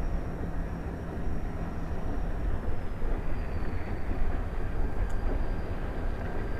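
Steady low rumble of a diesel freight train led by an EMD SD45T-2 locomotive, with a faint high whine that dips slightly in pitch about halfway through.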